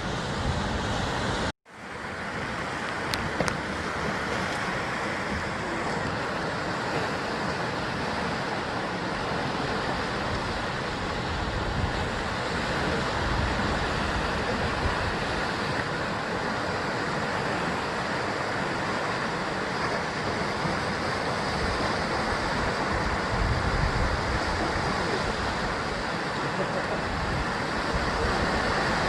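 Sea waves washing and breaking against a rocky basalt coastline: a steady rushing surf. About a second and a half in, the sound cuts out for an instant and then fades back in.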